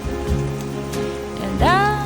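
Music with held instrument tones plays over the even hiss of heavy rain pouring down. A singing voice comes in with a rising phrase near the end.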